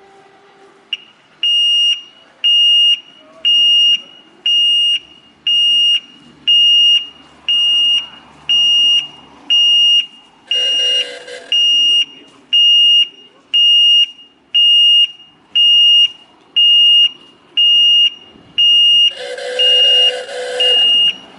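Electronic warning beeper sounding a high, steady beep about once a second, beginning about a second in. Twice a louder, rougher sound with a lower tone joins in briefly.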